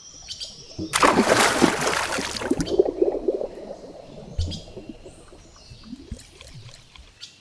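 Water splashing and churning, with fish moving at the surface, starting about a second in and lasting about a second and a half. It turns into gurgling and bubbling that dies away, followed by a few faint scattered clicks.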